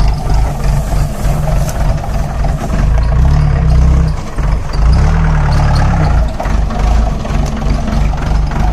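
4x4 jeep engine running as it crawls over a rough track, with a chirping from the fan belt that the driver takes for a loose fan belt.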